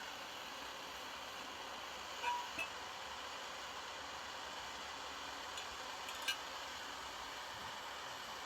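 Steady hiss of a handheld gas torch flame heating the spoke nipples of a wire wheel, with a few light metallic clinks.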